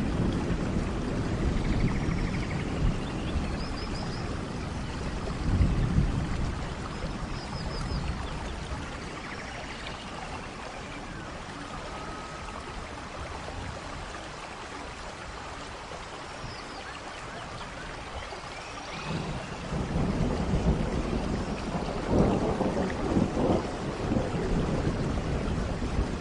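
Rain falling steadily, with low thunder rumbling. The rumble is strong at first, dies away for several seconds in the middle, and comes back near the end.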